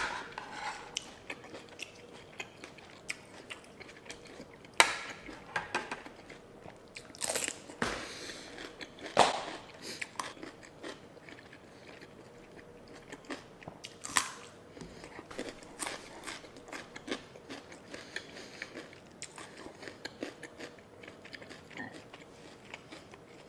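Close-miked chewing and biting of a spicy papaya seafood salad, with soft crunches and many small wet clicks, and a few sharper, louder clicks scattered through.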